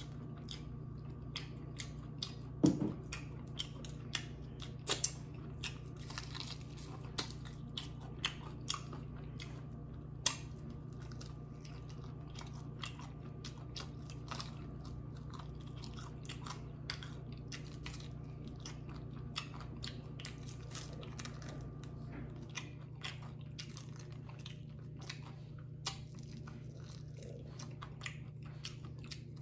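Biting and chewing crunchy fried chicken wings: crisp crackling crunches, the loudest bites in the first ten seconds, over a steady low hum.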